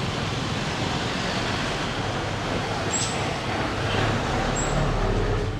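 Steady street traffic noise from passing motor vehicles, with an engine hum swelling a little about four seconds in.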